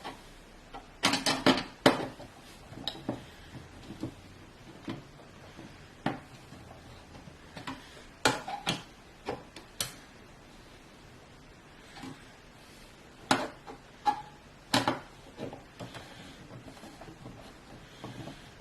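Metal clicks and clinks of screws and standoffs being handled and driven as a motherboard is screwed down into a PC case. They come in scattered clusters with quiet gaps between.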